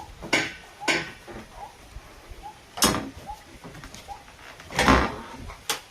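Irregular knocks and bangs from building work, about five in all, the loudest and longest near the end.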